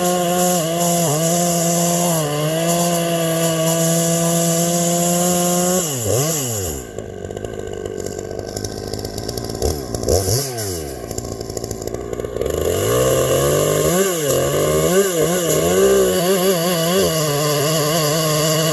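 Two-stroke chainsaw, freshly gas-ported, running at high revs. About six seconds in it drops back and the pitch swings up and down for several seconds. It then climbs back up, wavers, and settles to a steady high-rev note again.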